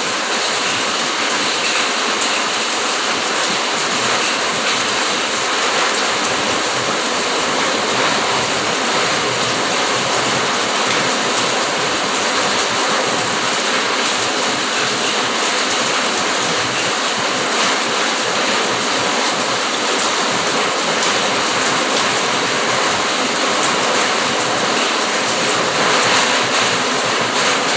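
Steady rain falling in a dense, even hiss of countless drops, swelling slightly near the end.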